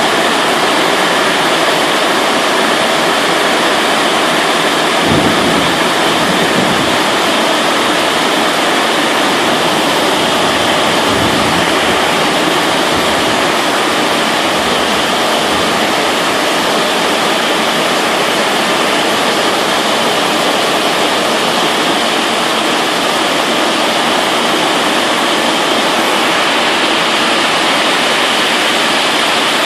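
Heavy rain falling in a steady downpour, with low rumbles of thunder about five seconds in and again from about eleven to sixteen seconds in.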